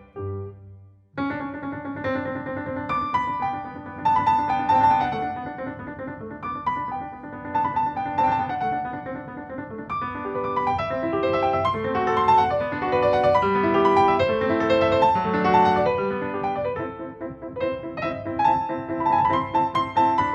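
Background piano music: a solo piano melody over chords, a new phrase starting about a second in.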